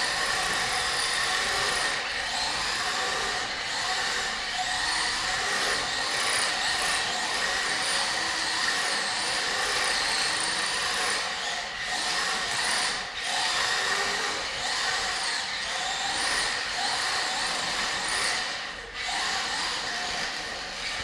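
Electric motor and drivetrain of a Traxxas Rally 1/10-scale RC car running as it is driven, its whine rising and falling again and again with the throttle.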